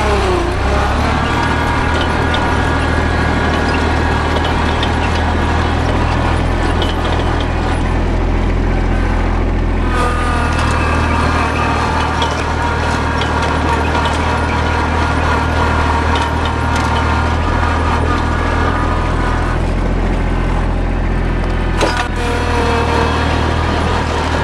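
Tractor engine running steadily while plowing snow, with a steady high whine over the engine note that changes pitch about ten seconds in and again near the end.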